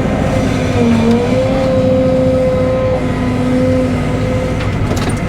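Cat 313 excavator's diesel engine and hydraulics running under work, with a steady whine over a low rumble. The whine dips in pitch briefly twice, near the start and about a second in, then holds steady.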